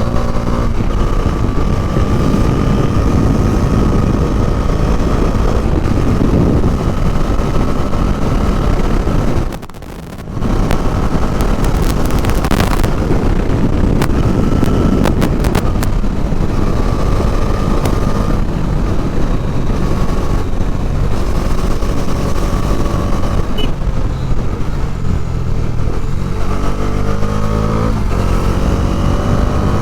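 Bajaj Dominar 400's single-cylinder engine running while the bike is ridden, with a rush of wind noise over it. The sound drops out briefly about ten seconds in, a few sharp clicks follow, and near the end the engine pitch rises and falls in quick steps as it is revved through the gears.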